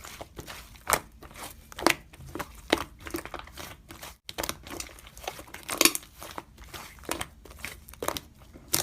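Slime being squeezed and pressed by hand, making irregular crackly clicks and sticky pops, a louder one roughly every second.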